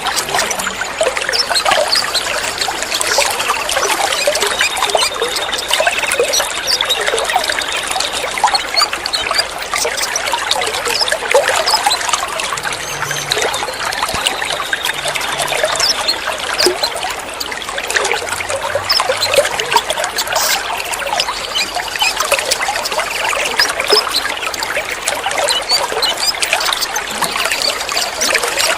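Water trickling and splashing steadily, a dense, continuous patter of droplets.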